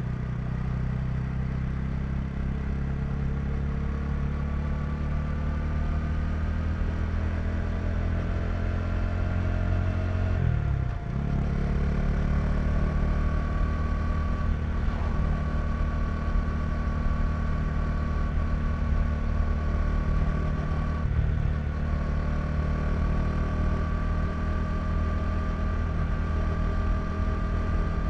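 KTM 390 Duke's single-cylinder engine pulling under way, its note slowly rising, with a short break and drop in pitch about eleven seconds in as the rider changes up a gear, then running on steadily and climbing gently again.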